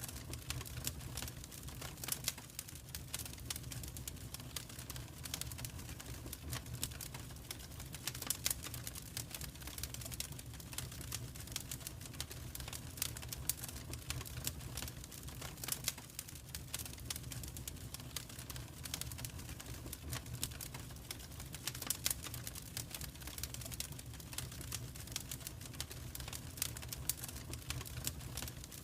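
Wood fire crackling in a fireplace: dense, irregular sharp crackles, a few louder pops among them, over a steady low rumble of the flames.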